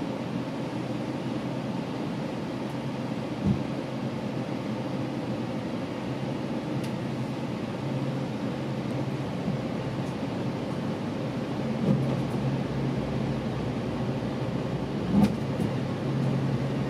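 GO Transit commuter train running, heard from on board: a steady rumble of wheels on the rails with a low hum that comes and goes. There are a few louder knocks, one about three seconds in and two more near the end.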